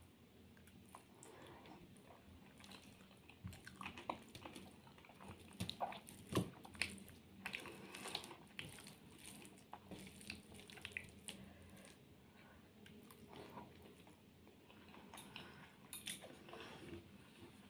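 Faint wet chewing and mouth sounds of someone eating rice and curry by hand, with scattered small clicks and squishes as fingers mix the food.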